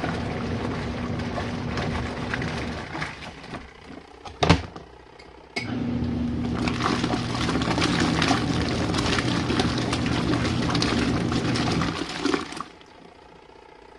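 Small portable washing machine agitating, its motor humming under water sloshing in the tub. The agitation stops about three seconds in, a sharp knock comes a second or so later, then the motor starts again abruptly and churns until shortly before the end.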